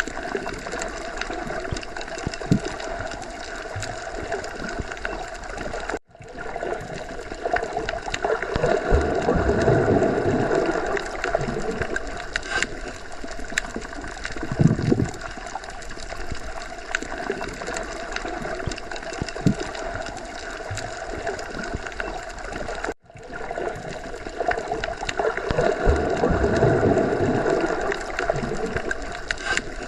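Underwater sea ambience: a continuous muffled wash and gurgle of water that swells louder twice in slow surges, cutting out for an instant twice.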